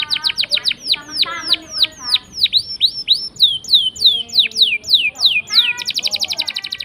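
Domestic canary singing: a run of clear whistled notes, each sweeping downward in pitch, several a second and slowing in the middle, then breaking near the end into a fast, even rolling trill.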